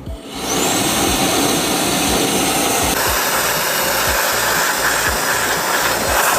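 A loud, steady rushing noise that comes in suddenly just after the start, over background music with a steady beat.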